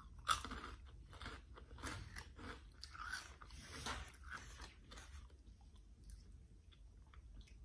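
Flamin' Hot Cheetos being bitten and chewed, a quick run of crisp crunches that thins out after about five seconds.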